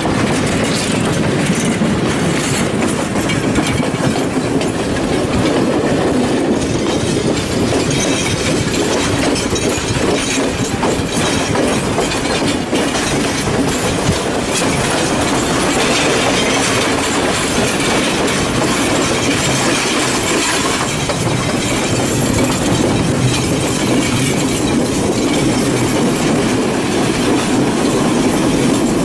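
Passenger train running along the track, heard from on board: a steady rumble with the wheels clicking over rail joints.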